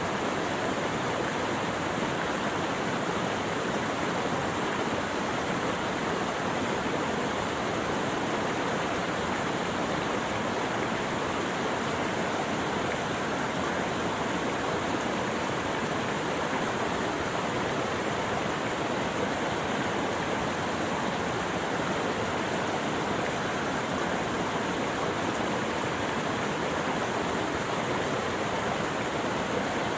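Running water rushing steadily and evenly without a break, as from a stream or waterfall.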